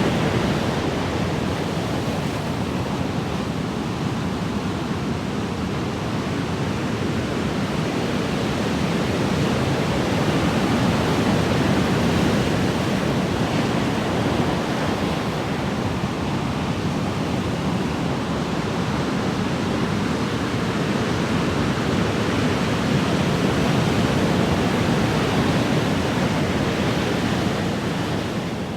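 Ocean waves: a continuous rushing wash of surf that swells and eases slowly, about every ten seconds.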